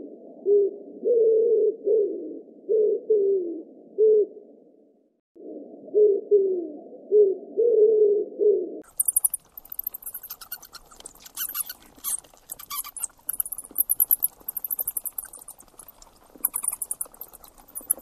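A dove cooing, a string of short low coos that fall in pitch, with a brief break about five seconds in. From about nine seconds in this gives way to rapid, very high-pitched squeaks and ticks from a pet rat.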